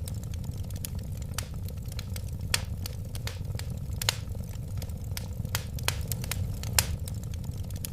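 Wood fire burning steadily in a fireplace: a low rumble of flames with irregular sharp crackles and a few louder pops.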